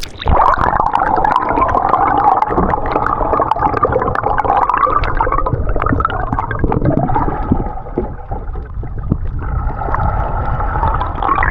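Muffled gurgling and sloshing of water heard by a camera held underwater, with a deep rumble and warbling tones. It starts and stops abruptly.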